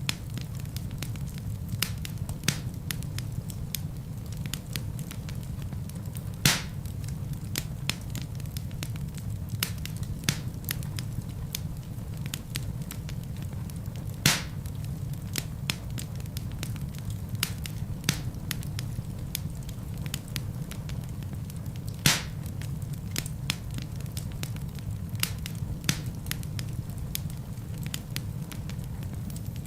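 Wood fire burning in a fireplace: a steady low rumble of flames with frequent crackles and occasional louder pops of burning logs, the biggest about a third, halfway and three-quarters of the way through.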